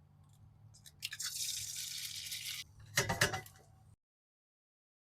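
Liquid pouring or running for about a second and a half, then a short burst of clattering knocks, like kitchenware being set down; the sound cuts off abruptly near the end.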